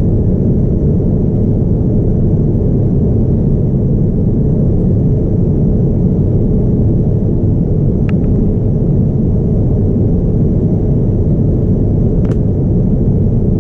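Steady low rumble of cabin noise aboard a Boeing 787-9 airliner in flight, with a faint steady high tone above it. Two brief faint clicks come in the second half.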